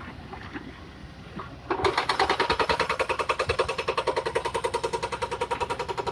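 Kobelco SK200 excavator running, with a rapid, steady mechanical clatter of about ten beats a second that starts abruptly about two seconds in.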